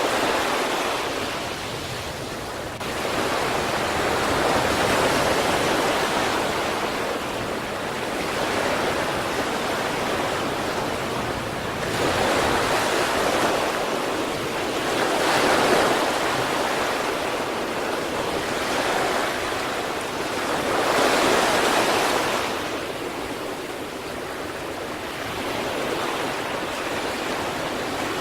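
Sea waves breaking on the shore in a continuous wash, with a wave swelling louder every few seconds and then receding.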